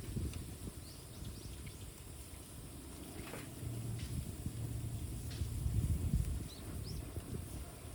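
Bamboo burning on an open fire: scattered sharp crackles and pops over a low rumble that swells for a few seconds in the middle, with a few faint high chirps.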